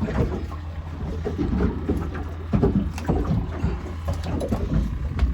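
Steady low rumble aboard a fishing boat at sea, with irregular knocking and rustling sounds over it.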